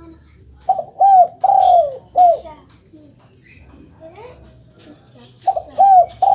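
Derkuku (Sunda collared dove) cooing: a group of four short coos, each rising then falling in pitch, beginning under a second in, then after a pause another run of coos starting near the end. A faint steady high tone sits underneath.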